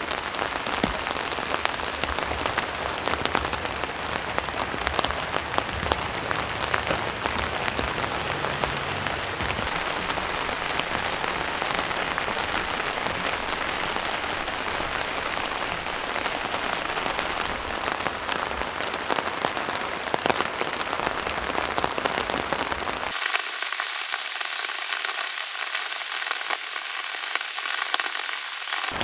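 Heavy rain falling, a dense steady hiss full of individual drops striking close by. About 23 seconds in the deep part of the sound drops away, leaving a thinner, brighter rain hiss.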